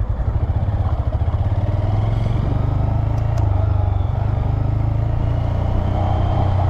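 Motorcycle engine running with a steady low throb, its firing pulses clearly separate for the first couple of seconds before blending into a smoother drone.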